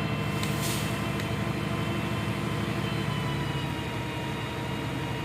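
Shingle delivery boom truck's engine running steadily while the boom lifts a load of shingles up to the roof, with a faint steady whine over the low engine hum and a few light clicks in the first second or so.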